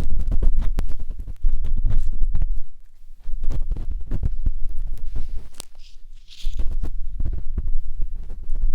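Matchstick scraping and rubbing against the ear of a 3Dio binaural microphone, heard close up as loud low rumbling full of scratchy clicks. It comes in strokes with short pauses, and a brief hiss rises just past the middle.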